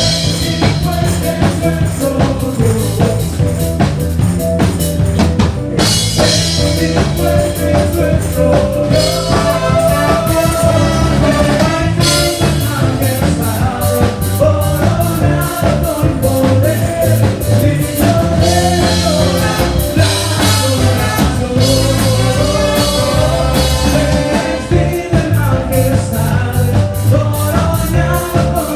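A band playing rock-style music with a drum kit keeping a steady beat under a bass line and a melodic lead, perhaps with singing.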